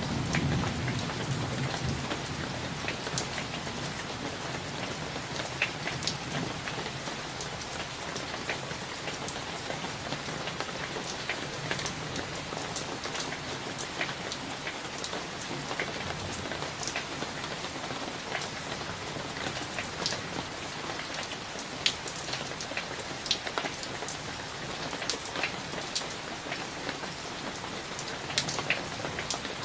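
Steady rain from a summer thunderstorm, with individual drops landing close by as sharp ticks throughout. A low thunder rumble dies away in the first couple of seconds.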